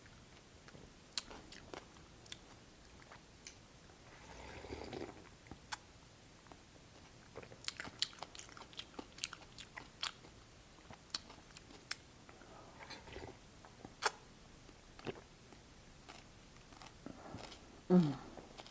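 Close-miked eating: a person biting and chewing crisp raw cucumber and vegetables from a cold soup, heard as scattered sharp crunches with two short softer wet stretches. A brief hum of the voice comes near the end.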